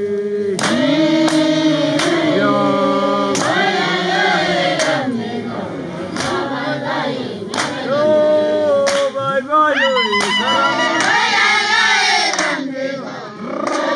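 A group of voices singing together in a chant-like song, the pitches swelling and bending, with sharp claps or beats marking a rough pulse.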